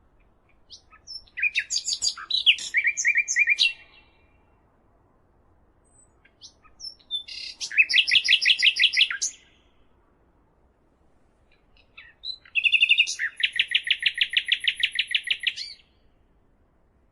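A songbird singing three separate song phrases a few seconds apart, each a run of quick chirps that ends in a fast, even trill.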